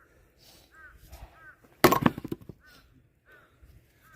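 A loud crack and clatter of firewood about two seconds in, dying away within a second. Behind it, a short high double squeak repeats about every three-quarters of a second.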